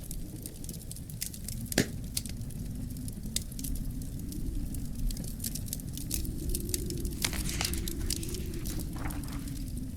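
Wood fire burning in a fireplace: a steady low rumble of flames with frequent sharp crackles and pops, one loud pop a little under two seconds in.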